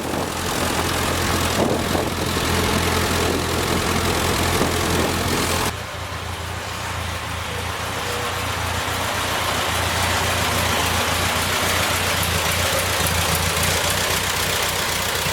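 John Deere tractor engine running steadily under a wide noisy rush. About six seconds in the sound changes suddenly and drops a little, then slowly builds again.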